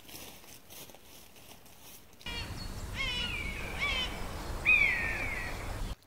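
Woodland ambience: faint rustling at first, then from about two seconds in a steady low rumble with a series of bird calls. The calls are short falling whistles, and near the end comes one longer, louder falling call.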